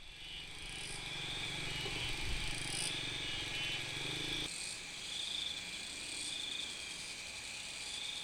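Outdoor insect chorus, a dense pulsing buzz that swells and fades every second or two, over a low rumble that cuts off about halfway through.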